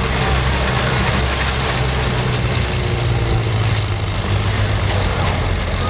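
Demolition derby cars' engines running with a steady low drone.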